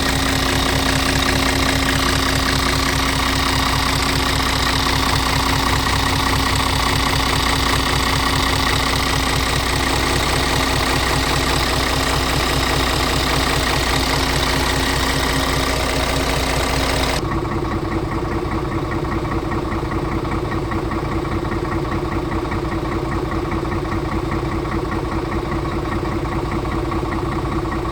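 Scania R tractor unit's diesel engine idling steadily. About two-thirds of the way through, the sound changes abruptly: the hiss above it drops away and the low hum comes forward.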